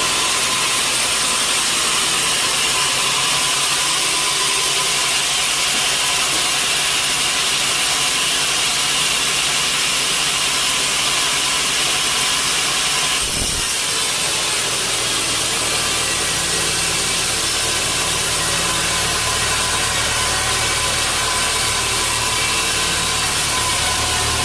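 Sawmill saw cutting through a log with a steady, loud hiss. About halfway through there is a short thump, after which a low machine hum joins the cutting.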